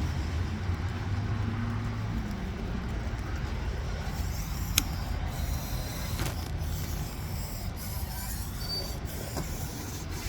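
Steady low rumble of a motor vehicle, with a single sharp click about five seconds in.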